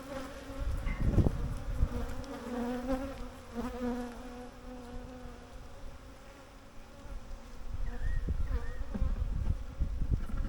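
Honeybees buzzing around an opened hive, a wavering hum from many bees in flight. The colony is agitated and defensive. Low rumbling thuds come and go underneath, strongest about a second in and again near the end.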